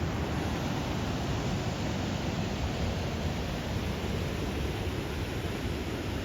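Steady, even rush of water pouring over the falls and rapids of a river waterfall.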